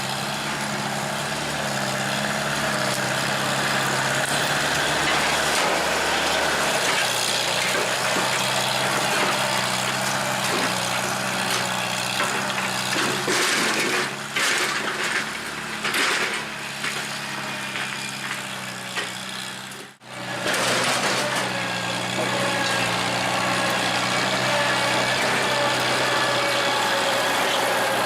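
1949 International W-4 tractor's four-cylinder engine running steadily while working, with a run of knocks and clatter about halfway through.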